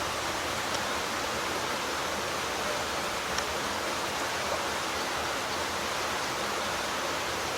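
Steady rush of water from a rocky creek's small rapids and waterfalls.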